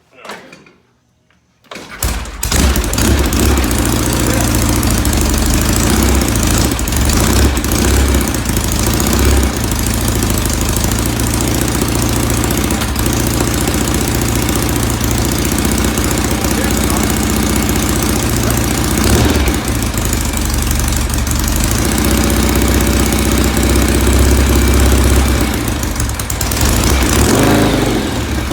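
1970 Norton Commando's 750 cc parallel-twin engine starting cold on choke, catching about two seconds in and then running steadily, with small changes in speed.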